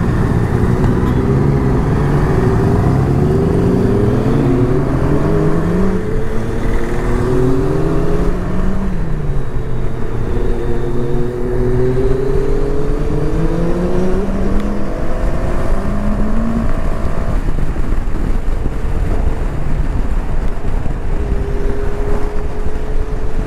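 Sport motorcycle engines revving up through the gears at road speed. The pitch climbs and drops several times, over a steady rush of wind and road noise.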